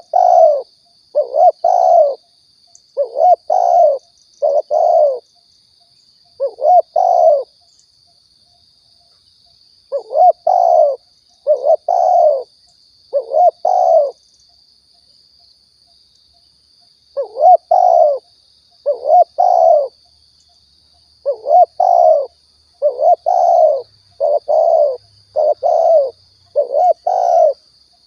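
Spotted dove (tekukur) cooing in phrases of two or three low notes, repeated every second or two, with longer pauses about a third of the way in and again past the middle. A faint steady high tone runs behind it.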